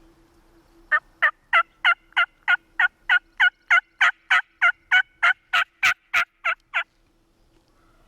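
Hen turkey yelps made on a hunter's turkey call: a long, loud, close run of about twenty evenly spaced yelps, about three a second, each dropping in pitch. The caller is working a gobbler.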